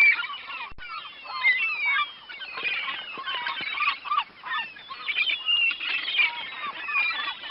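A flock of domestic waterfowl calling over one another: many short, overlapping calls, with a brief break less than a second in.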